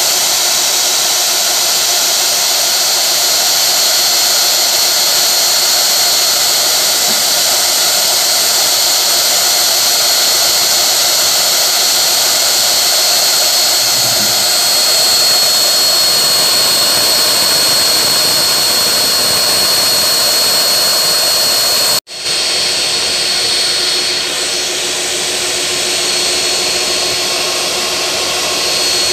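Loud, steady machinery noise with a constant high whine, cut off for a moment about 22 seconds in and then resuming.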